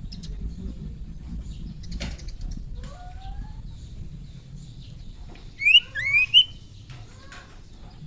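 Caged iora (sirtu) calling: two or three short, loud rising whistles about six seconds in, after a few fainter rising notes, over a low steady rumble.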